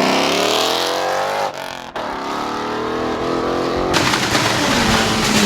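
Car engine revving hard and climbing in pitch as it accelerates away, breaking off briefly as if on a shift, then pulling again. From about four seconds in, a loud rapid crackle of exhaust pops takes over.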